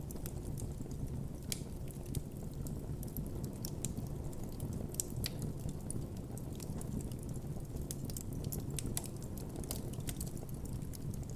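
Campfire burning with a steady low rumble of the flames and frequent irregular crackles and pops from the burning wood.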